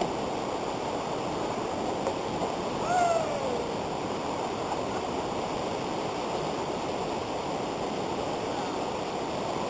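River rapids rushing steadily over rocks. A short falling call sounds once about three seconds in.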